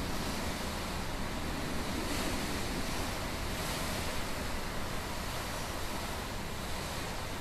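Typhoon wind roaring steadily, swelling in gusts about two and three and a half seconds in, with wind buffeting the microphone.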